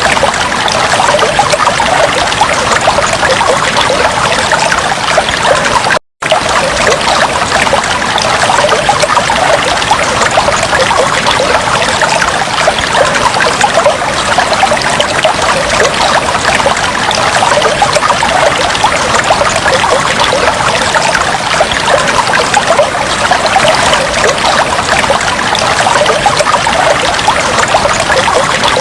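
Aquarium water trickling and bubbling steadily, with a dense patter of small splashes. It drops out for a split second about six seconds in.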